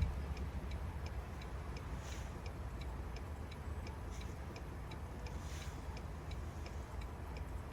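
A steady, even ticking, about two ticks a second, over a low rumble.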